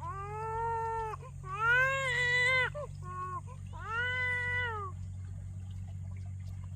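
Cat meowing: three long, drawn-out meows about a second each, with a short one between the second and third.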